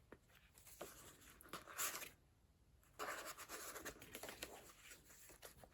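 Paper pages of a handmade junk journal being turned and handled: soft rustling and brushing of paper, with a couple of light clicks about a second in.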